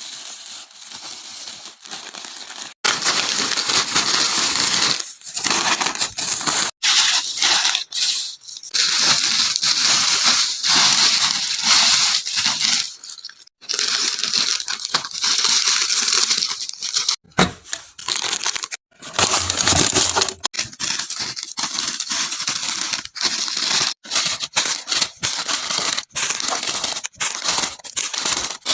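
Plastic snack packets crinkling and rustling as they are handled, with tearing of packaging, in many short stretches that cut off suddenly.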